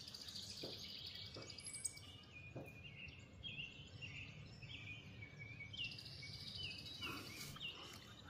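Songbirds chirping and calling, many short high notes repeated one after another, with a few faint knocks in the first few seconds.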